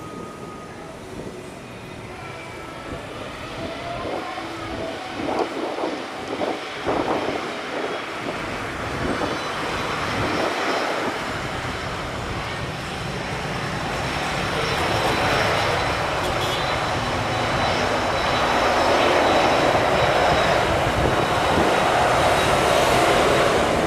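Airbus A330-900neo's Rolls-Royce Trent 7000 turbofans at take-off thrust: a jet roar that builds steadily louder, with a high whine joining it in the second half.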